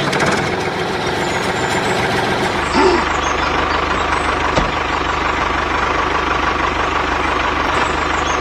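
Tractor engine running steadily, with a low chugging that grows stronger about two and a half seconds in.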